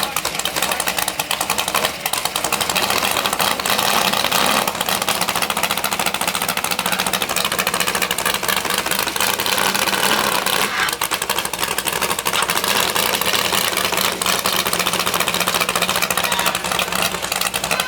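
Car engine running loudly through its exhaust, a steady fast rattle of firing pulses.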